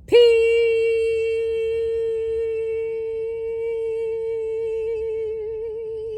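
A voice humming one long, steady note that scoops up into pitch at the start and gains a slight wavering vibrato near the end.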